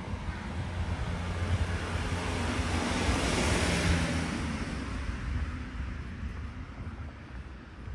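A car driving past, its engine hum and tyre noise rising to a peak about three and a half seconds in and then fading away.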